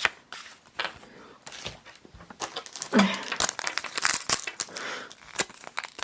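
Crinkling and rustling of a foil booster-pack wrapper and trading cards being handled. It is sparse at first, then becomes a dense run of quick crackles from a little before halfway.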